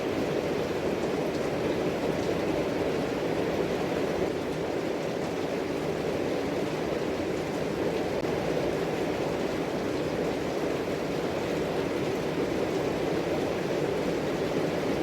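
Steady, even background rumble with no distinct events, like a fan, machinery or traffic noise.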